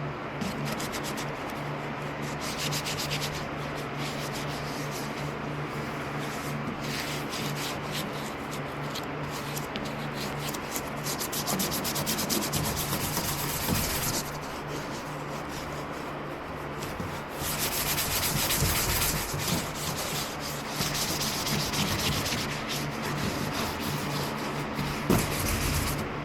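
Sanding: continuous rough rasping strokes, growing louder for a couple of stretches around the middle and in the second half.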